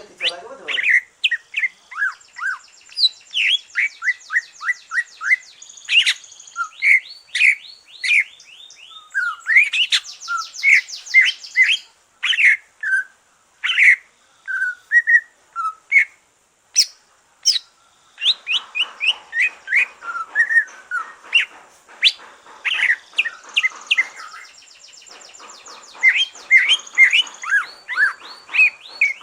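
Cucak ijo (green leafbird) singing a fast, varied song of clear whistles, chirps and rapid trills, broken by short pauses: the full song of a bird that has come through its moult. In the second half a fainter rough, raspy noise runs under the song.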